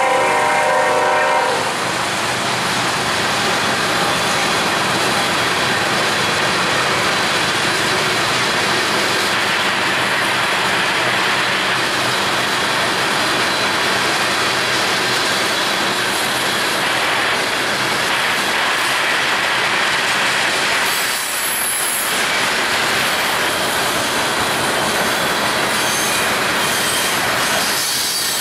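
Freight train cars rolling past at close range, a steady loud rumble and clatter of steel wheels on rail. A train horn chord sounds at the start and cuts off about a second and a half in, and a few high wheel squeals come near the end.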